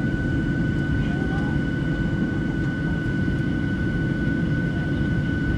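Boeing 737-700 cabin noise: the CFM56 jet engines give a steady low rumble with a steady high-pitched whine on top, holding at an even level.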